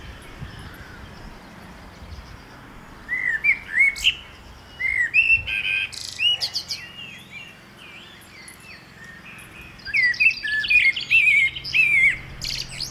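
Songbird singing in two spells of quick, varied whistled phrases and chirps, the first about three seconds in and the second about ten seconds in.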